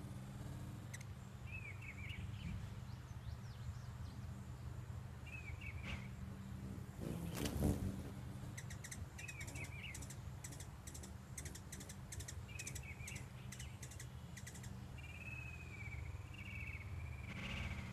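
Small birds chirping in short, repeated clusters of calls, over a steady low hum. A brief loud rush of noise comes a little before halfway, followed by a run of rapid sharp clicks.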